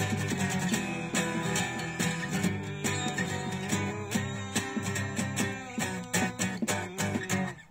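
Guitar strummed in a steady rhythm, the instrumental close of a song after the last sung line. The strumming breaks off briefly near the end before the next chord.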